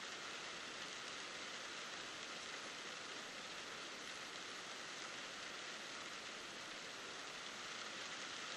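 Steady rain falling on a car's roof and windscreen, heard from inside the cabin.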